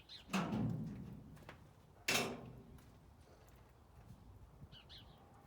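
Two loud clunks of objects being moved and set down, about two seconds apart, the second sharper; a faint bird chirp near the end.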